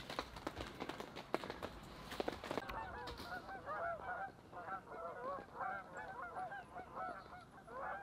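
Footsteps crunching through deep snow, then, from about three seconds in, a flock of geese honking, with many quick overlapping calls.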